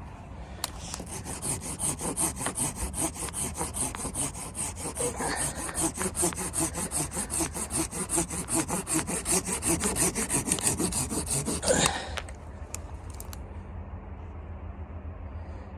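A hand saw cutting wood with quick, even back-and-forth strokes that stop near the end.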